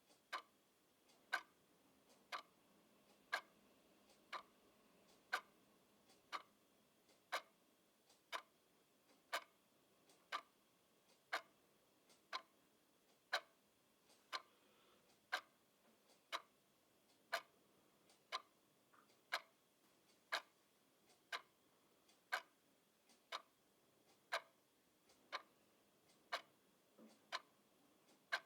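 Clock ticking steadily, about two ticks a second, with every other tick louder in a tick-tock pattern.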